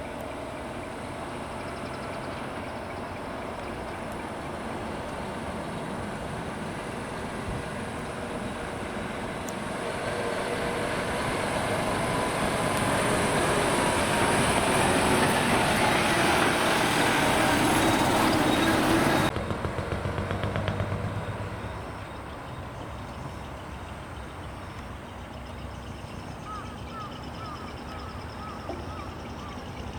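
A heavy diesel truck's engine running, growing steadily louder over several seconds as it comes close. The sound drops suddenly to a lower, steady engine noise.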